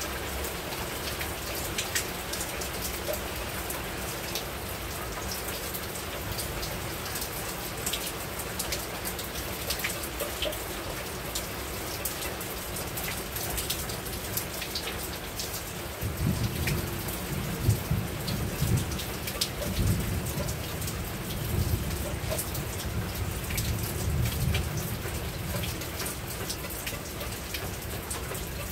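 Steady rain falling on a rooftop, with individual drops ticking sharply through the hiss. A little over halfway through, a low rumble of thunder sets in and rolls on to the end.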